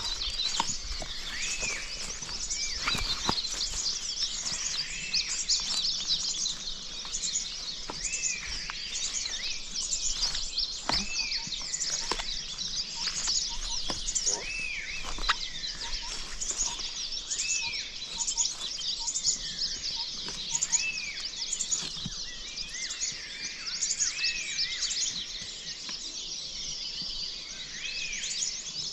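Many birds chirping together, with one bird repeating a short rising-and-falling call about every two seconds over the chorus. A few sharp knocks stand out now and then.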